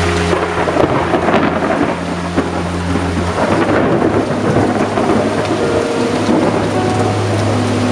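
Heavy rain pouring steadily, with rolling thunder rumbling through it.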